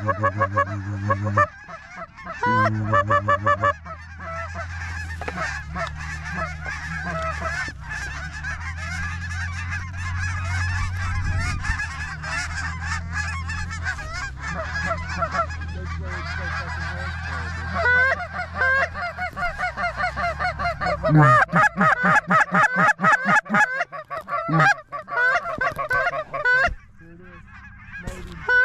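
Many geese honking at once in dense, overlapping calls, with a steady low hum underneath for most of the first part. About 21 seconds in, a louder run of rapid honks takes over.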